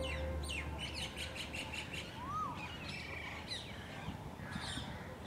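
Birds chirping and twittering, with a fast run of repeated chirps about a second in and a single whistled note that rises and falls about two seconds in.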